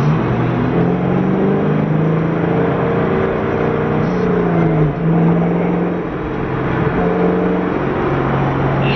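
Twin-turbo Ford Mustang's engine running under steady throttle, a continuous droning note whose pitch shifts up and down a few times, with a brief drop about five seconds in.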